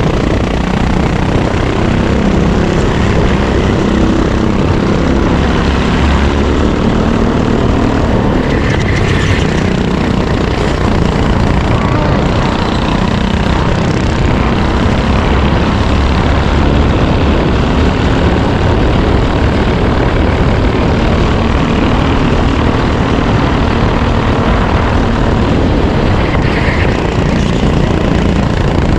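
Racing kart engine running under load, its revs rising and falling as the kart laps the track.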